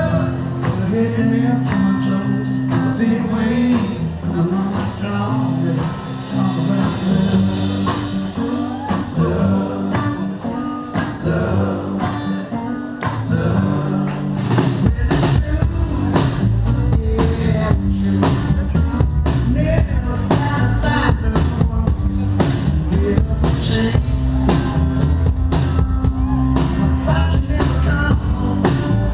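Live band playing a rock and blues groove with electric guitar, bass and drum kit. About halfway through, the band comes in heavier, with more bass and kick drum.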